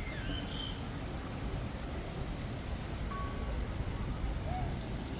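Aviary ambience: a steady low rumble and a thin, steady high whine, with a few short, scattered bird calls, one shortly after the start and others around three and four and a half seconds in.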